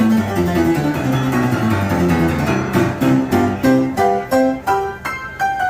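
Piano played live: quick falling runs of notes, then from about halfway short, separated chords.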